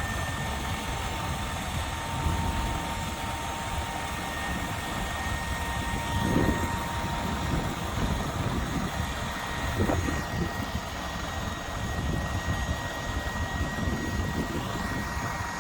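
Isuzu NRR dump truck's diesel engine running steadily as the hydraulic lift raises the dump body, with a faint steady whine that stops near the end. The lift is quiet enough that the engine is the main sound.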